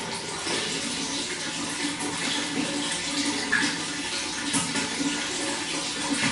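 Running water flowing steadily, with small gurgles through it.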